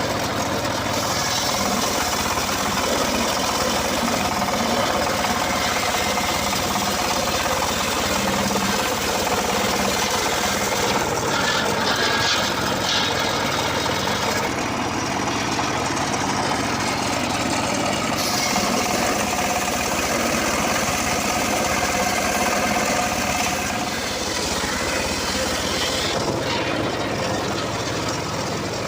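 Engine of a homemade circular saw rig running steadily, with a few small shifts in its sound.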